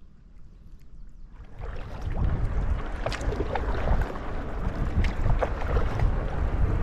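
Wind rumbling on the microphone and water splashing around a canoe on open water, starting abruptly about a second and a half in, with scattered sharp splashes or knocks.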